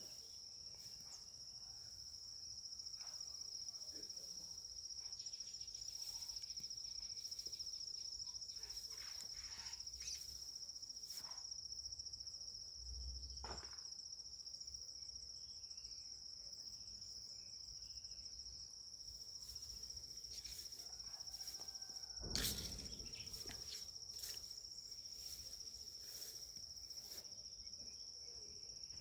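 An insect trilling steadily on one high, unbroken note, with scattered faint clicks and one brief louder thump about 22 seconds in.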